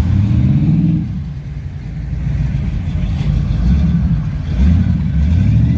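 A car engine with a low, deep rumble, revving up twice: once at the start and again near the end.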